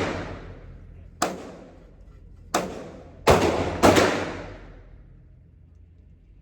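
Four gunshots at uneven intervals, the last two close together and loudest, each ringing out and fading slowly.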